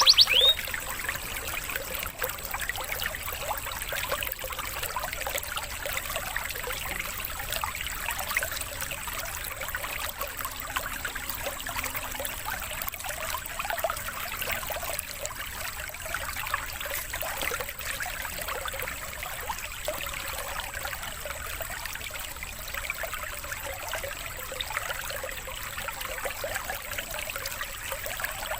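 Steady trickling, babbling stream water from a water-therapy recording. A canary's rapid trill cuts off about half a second in.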